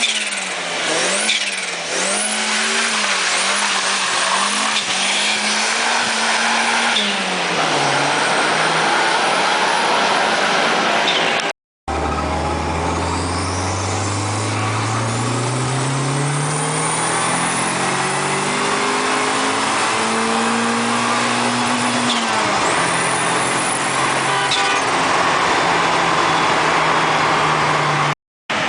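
Turbocharged Toyota 4E-FTE four-cylinder engine in a Daihatsu Charade. It revs up and down, then accelerates hard through the gears, its pitch climbing in repeated rising steps, with high whistling glides over the top. The sound is broken twice by brief cuts.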